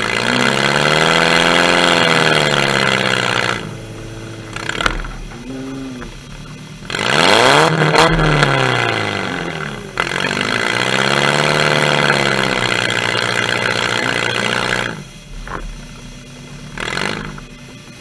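Demolition derby car's engine revved repeatedly while standing still, about five rises and falls in pitch, some long and some short blips, with lower running between.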